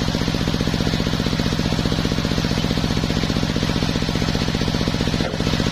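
The engine of a homemade circular sawmill running steadily, with a rapid, even pulsing and a brief dip about five seconds in.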